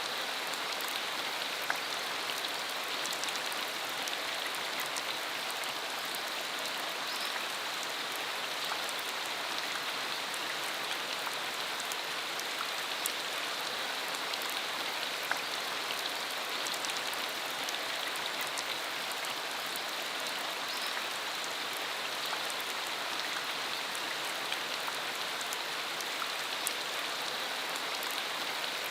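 Steady rain shower falling on a surface, an even hiss with scattered sharp drop ticks.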